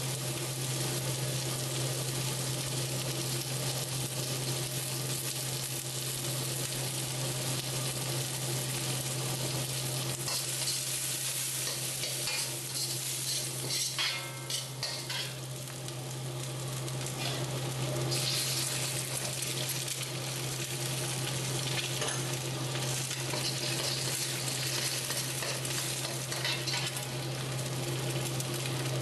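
Diced onion, garlic and chillies sizzling in hot oil in a carbon steel wok, with a metal ladle scraping and stirring them and a steady low hum underneath. Partway through, eggs go into the wok and the sizzle grows louder.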